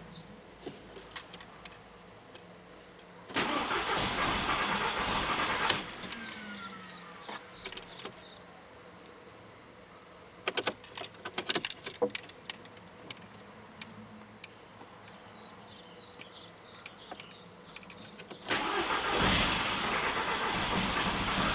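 Audi A3 1.8T turbo four-cylinder petrol engine cranked on the starter from cold: one crank of about two and a half seconds that stops abruptly, a few clicks some seconds later, then a second crank beginning near the end. A hard start after standing, which new fuel pump, pump relay, fuel filter and check valve have not cured.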